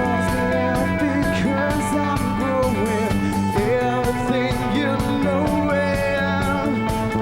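Rock band playing a song live, with drums keeping a steady beat under guitars and a sung vocal.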